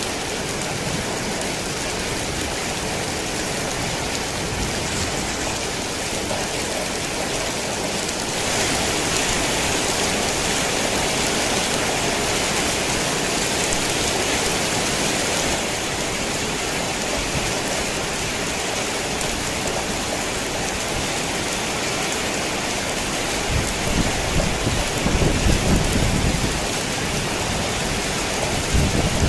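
Heavy rain falling on a tin roof, a dense steady hiss that grows heavier for several seconds a third of the way in. Low rolling thunder rumbles in near the end.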